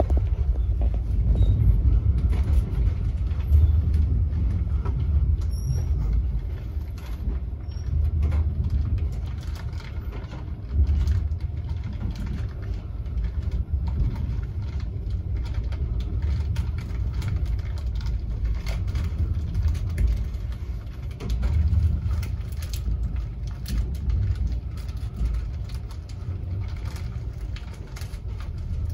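Passenger train running along the track, heard from inside the carriage: a steady low rumble with many short clicks and knocks from the wheels on the rails.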